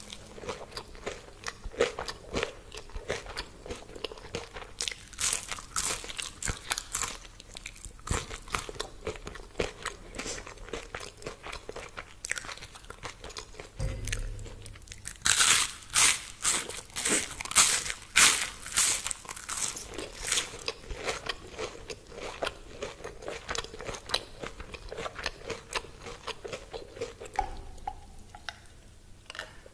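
Close-miked crunching and chewing of crispy deep-fried food, a steady run of crackly bites and chews that grows loudest and densest about halfway through.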